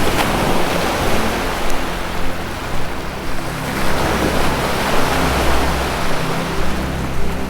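Ocean surf washing in a steady, swelling rush, over a low sustained music drone.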